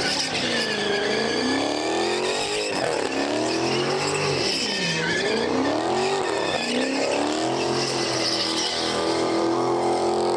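A car engine revving hard with its tyres spinning, as in a burnout: the revs swing up and down every second or two over a hiss of tyre noise, then hold high and steady near the end.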